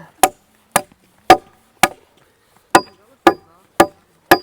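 Machete blade chopping into a sycamore branch: eight sharp strikes about two a second, in two runs of four with a short pause between, several with a brief metallic ring.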